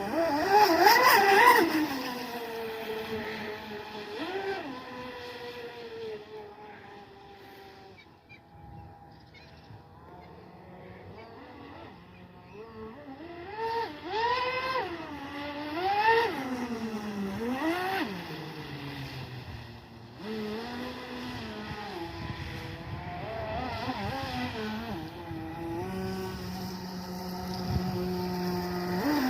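Twin brushless motors of a TFL Zonda RC catamaran whining as it runs on the water, the pitch rising and falling with the throttle. It is loud in a fast pass about a second in, fades as the boat goes off, then comes back in a string of short throttle bursts, likely short runs to warm the batteries.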